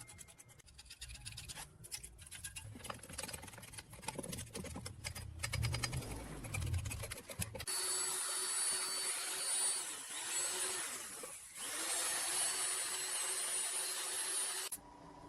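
Workshop tool work: low handling noises and clicks for about half the time, then an electric power tool starts and runs steadily with a hissing whine, stopping abruptly near the end.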